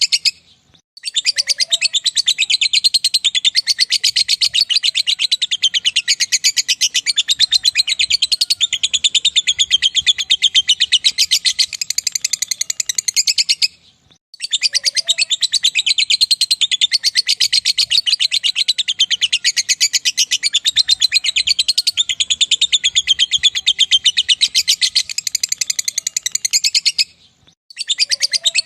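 Lovebird 'ngekek': a long, very fast, high-pitched chattering trill held for about twelve seconds at a stretch, broken by short pauses near the start, about halfway through and near the end.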